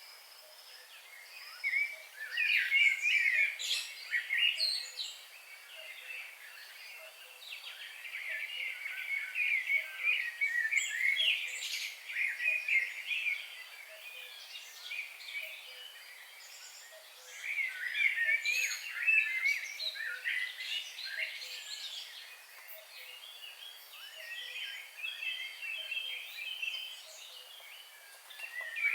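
Several wild birds chirping and singing at once, quick high chirps and warbles coming in busy spells of a few seconds with quieter moments between.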